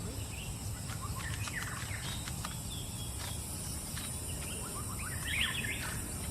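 Outdoor field recording of birds giving short chirps in small clusters, busiest about a second and a half in and again around five seconds, over a steady low rumble and a constant high hiss.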